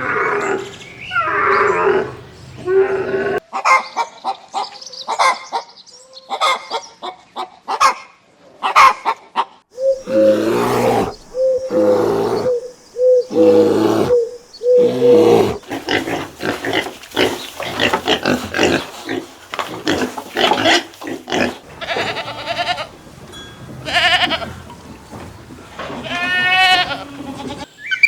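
A run of farm animal calls, one after another and changing from animal to animal, with a series of five similar calls in a row around the middle.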